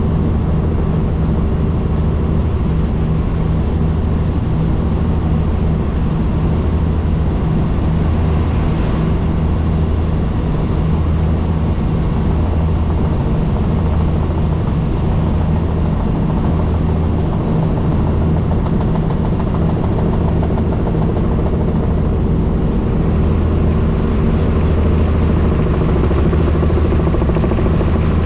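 Helicopter in flight: steady, loud rotor and engine noise, its low hum swelling and fading in a slow regular beat about once every second or so.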